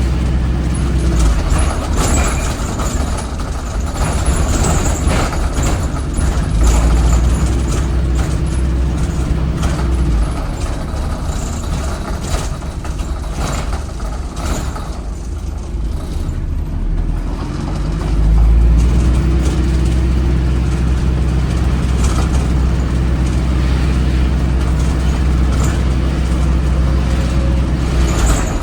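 ADL Enviro 400 hybrid bus's Cummins ISBe 4.5-litre diesel running hard under heavy throttle, a loud deep drone with scattered clicks and knocks. The drone eases off around the middle and swells back to its loudest at about eighteen seconds.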